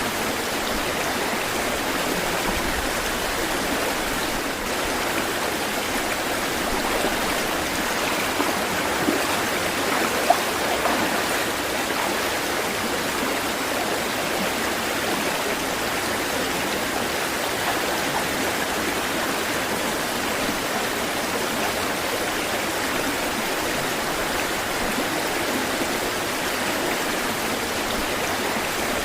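Flowing water rushing steadily, with a few brief splashes about a third of the way in.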